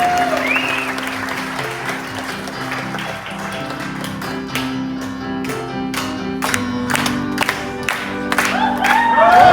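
Piano playing the opening music of the show, with audience applause dying away at the start. From about four seconds in, sharp accents come at a steady beat.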